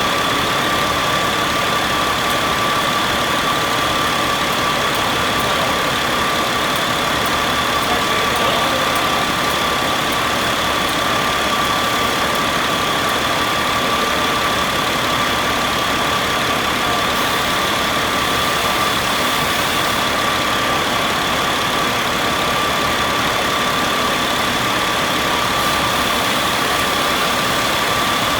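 Caterpillar 3126 inline-six diesel engine idling steadily, with a constant high-pitched whine over the engine noise.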